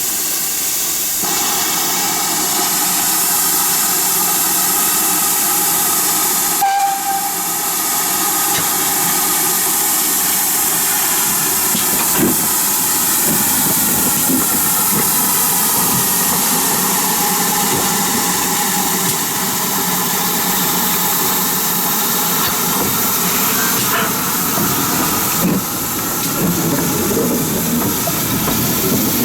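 Steam locomotive letting off steam: a loud, steady hiss with a faint tone running through it, cut short and resuming at about 7 seconds in and changing again near the end.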